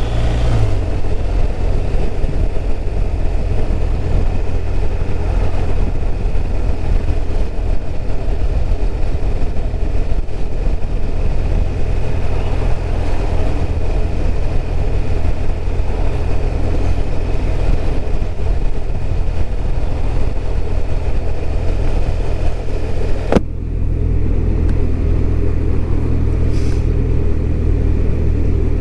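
BMW R1200RT flat-twin motorcycle being ridden at a steady pace: a constant engine and road rumble with a hiss of wind over it. About 23 seconds in there is a sharp click, and the hiss becomes fainter after it.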